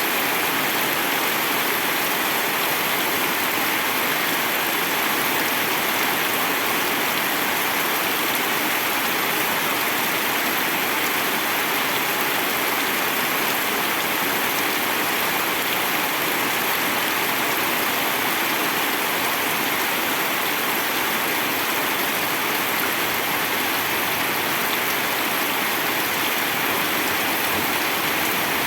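Steady rain falling, an even dense hiss with no let-up and no separate drops standing out.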